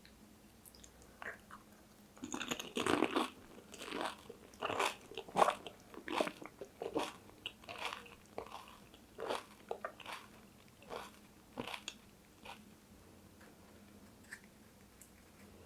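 Crunching and chewing of pani puri, the crisp hollow puri shell cracking in the mouth. A loud burst of crunches about two seconds in, then a run of crunching chews, somewhat under two a second, that thin out and stop a few seconds before the end.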